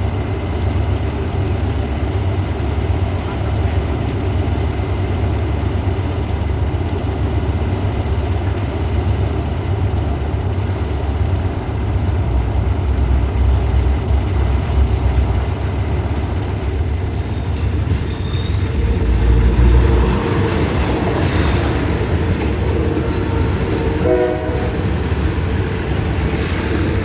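A train running past, a steady heavy rumble of locomotive and wagons that swells twice, with a short pitched tone about 24 seconds in.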